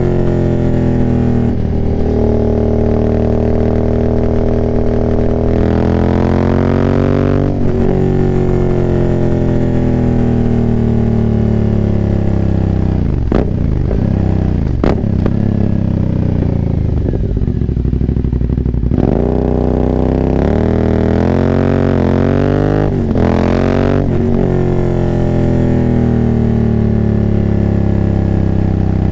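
2019 Aprilia Dorsoduro 900's V-twin engine running through a full, de-catted Arrow exhaust with no dB killers, ridden hard. The revs climb and break off in quick gear changes, fall away in a long deceleration around the middle with a few sharp cracks, then climb through the gears again.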